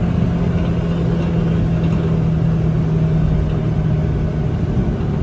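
1999 Suzuki Carry DB52T kei truck's 660 cc three-cylinder engine running at a steady, constant pitch while driving, with low road rumble.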